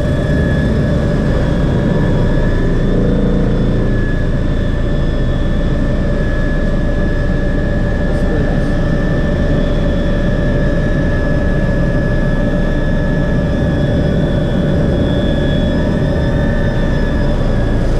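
MBB Bo 105 helicopter in flight: a steady high turbine whine over a loud, dense rumble of rotor and engine noise.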